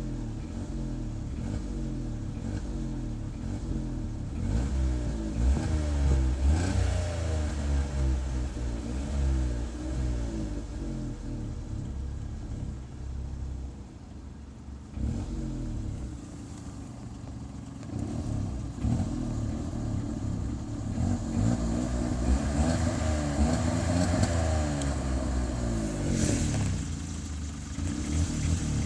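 Car engine being revved repeatedly, its pitch climbing and falling in a run of rev blips. About halfway through it drops back toward idle for a couple of seconds, then the revving picks up again.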